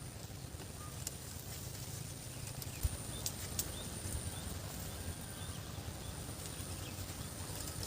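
Outdoor rural ambience: a steady low rumble with a few sharp clicks and faint, short high chirps over a thin, steady high tone.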